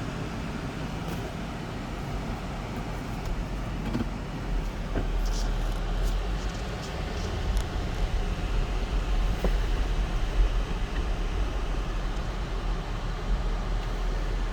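Cabin noise of a 2004 Lexus GX 470 on the move: a steady low rumble of tyres and drivetrain that gets louder about four seconds in, with a few light clicks partway through.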